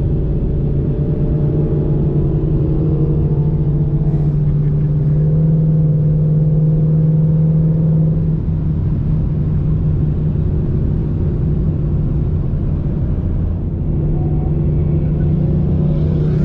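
Car engine droning steadily at highway cruise, its pitch stepping up slightly about five seconds in and easing back around eight seconds in.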